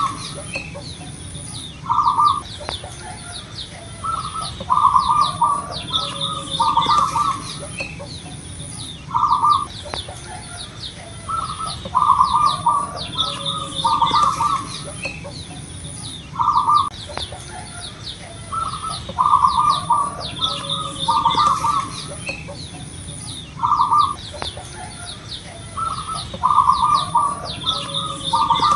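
Zebra dove (perkutut) cooing: short phrases of a few quick notes, repeated about every two seconds, with fainter high chirping of other small birds behind.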